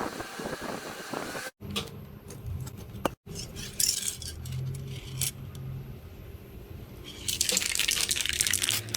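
Metal clinking and rattling in short separate takes, broken by two sudden cuts to silence, over a low steady hum, with a thick run of clicks near the end.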